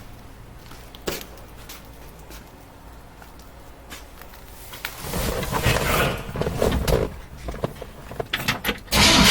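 Clicks, knocks and handling sounds around the truck's door and cab, then just before the end the 1955 Chevy Cameo's 327 V8 suddenly starts up and runs loud.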